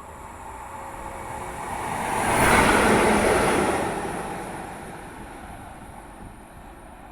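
FS E652 'Tigre' electric locomotive running through the station without stopping. Its noise swells to a peak about three seconds in, then fades as it moves away.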